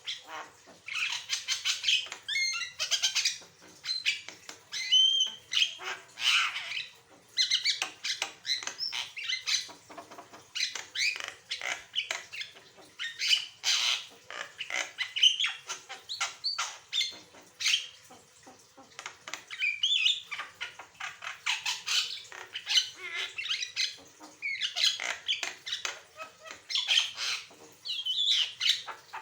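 Javan myna (jalak kebo) singing in full voice: a long, varied run of harsh chatter, clicks and whistled notes, coming in bursts of a few seconds with short breaks between.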